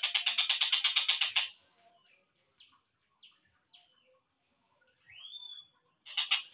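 Tengkek buto kingfisher call slowed down for bird training: a loud, rapid rattling series of harsh notes for about a second and a half, then a few faint chirps and a single rising slurred note, and another short rattle near the end.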